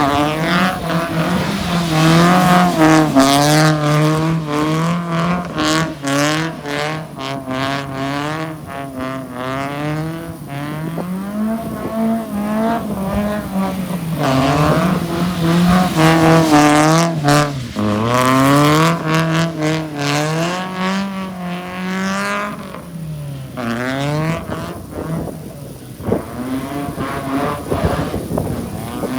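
Car engine revving hard while drifting, its pitch climbing and dropping again every second or two as the throttle is worked.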